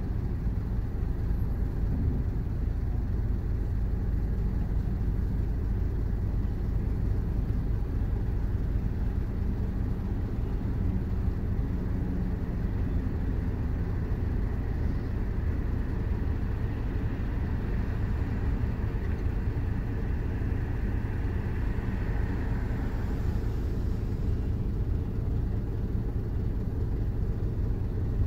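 Steady low engine rumble heard inside a car's cabin while the car stands still with the engine running. A faint whoosh swells and fades about two-thirds of the way through.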